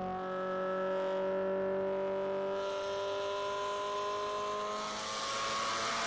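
Honda Civic EG6's VTEC four-cylinder engine accelerating in one long pull, its pitch climbing slowly and steadily. About two and a half seconds in the sound turns harsher and raspier.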